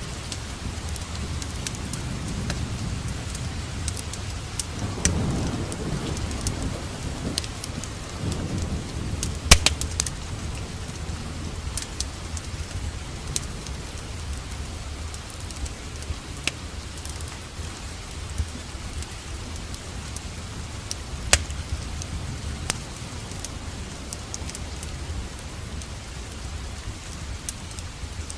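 Steady rain together with a wood fire crackling in a fireplace, sharp pops scattered throughout, the loudest about nine and a half seconds in. A low rumble swells and fades between about five and nine seconds in.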